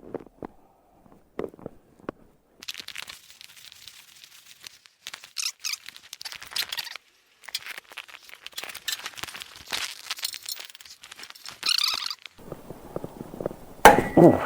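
Scattered light clicks, then uneven rustling and scraping that comes and goes for several seconds, and a single sharp clank near the end.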